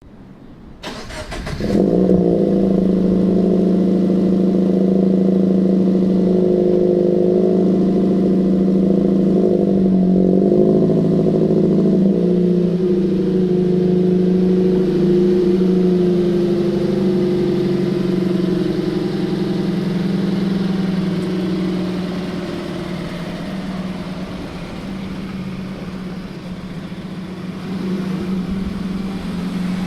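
Subaru BRZ / Toyota 86 flat-four engine breathing through a Borla 11839 axle-back exhaust, heard from inside the cabin: it starts up about a second in and settles into a steady idle, which eases a little lower and quieter in the second half.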